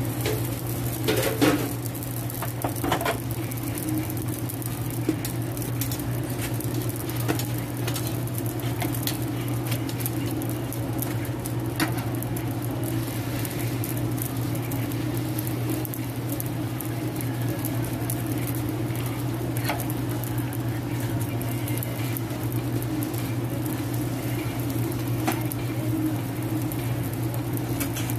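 Hotteok frying in oil on a flat steel griddle: a steady sizzle and crackle over a constant low hum. A few sharp clicks and taps come through as the steel hotteok presses and tools are set down on the griddle.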